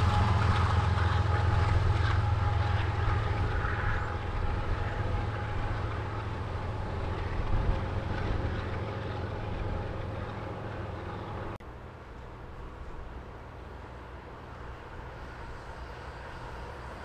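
Train running by with a low rumble that gradually fades, then drops off suddenly about two-thirds of the way through.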